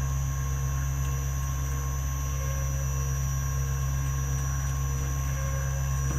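CNC milling machine running steadily: a low motor hum with a faint, steady high whine above it.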